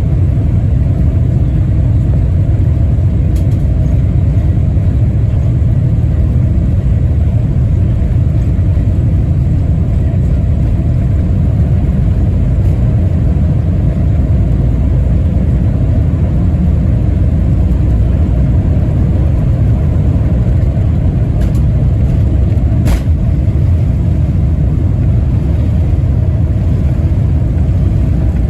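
Loud, steady low rumble of a Boeing 747-400's four engines and airflow heard from inside the passenger cabin. A faint click about 23 seconds in.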